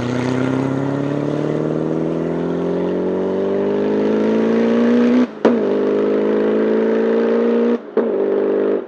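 Twin-turbocharged LS7 V8 of a Mazzanti Evantra Millecavalli accelerating hard, its engine note rising steadily in pitch. It is cut by two quick upshifts, about five and eight seconds in, each a brief dip before the pull resumes.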